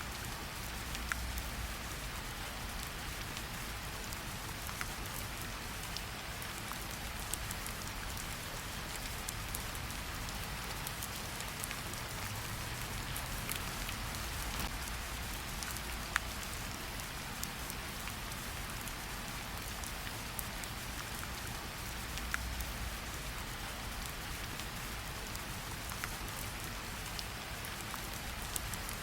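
Steady rain falling, an even hiss with scattered louder individual drops ticking against a window and surfaces.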